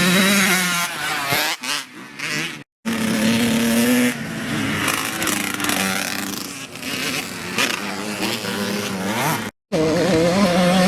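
Dirt bike engines revving, their pitch rising and falling with the throttle. The sound cuts out completely twice for a split second.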